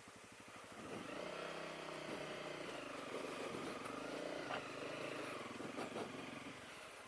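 Honda CRF250L's single-cylinder four-stroke engine idling, then pulling away about a second in, its note rising and falling as the bike rides along the trail.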